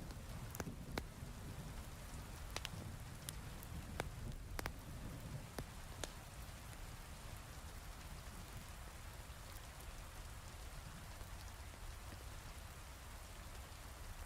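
Steady heavy rain, with sharp crackling pops from a wood fire in a fireplace, mostly in the first half. A low rumble underneath eases off about halfway through.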